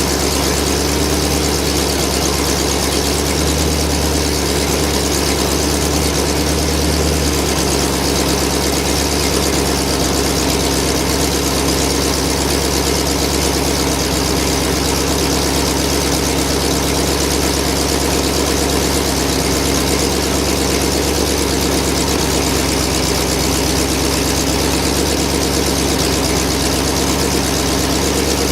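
TVR Rover V8 engine idling steadily through its freshly rebuilt exhaust, running again after standing a year; the low note shifts slightly about seven seconds in.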